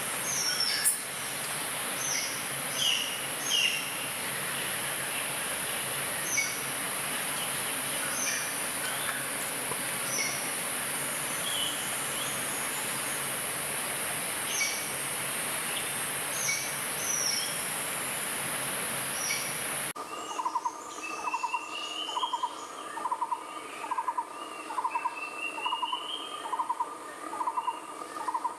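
Birds calling, with short scattered chirps over a steady high hiss. About two-thirds of the way through the sound changes abruptly to a pulsed call repeated about twice a second, with a rising whistled call every few seconds.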